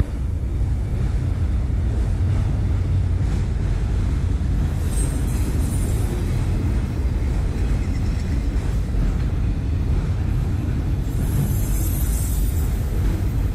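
Loaded autorack freight cars rolling past at a steady pace, a continuous low rumble of wheels on the rails.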